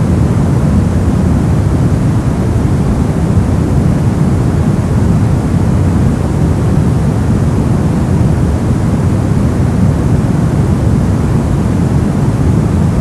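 Brown noise: a steady, deep rumbling hiss, strongest in the low end and falling off toward the highs, unchanging throughout.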